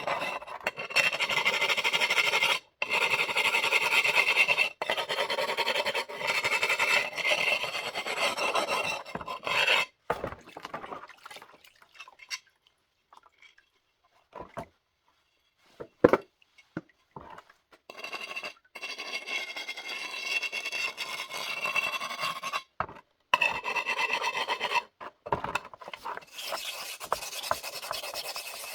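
A hand abrasive rasping against the bare, unglazed surface of a wood-fired ceramic vessel, in runs of quick scraping strokes, as the rough fired edges are ground smooth. The scraping stops for several seconds midway, with a few small clicks and one sharp knock, then resumes.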